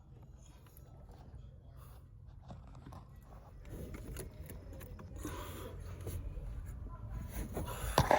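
Faint scraping and rustling as the clogged A/C evaporator drain hose is worked at to clear it, over a low steady hum, with a few sharp knocks near the end.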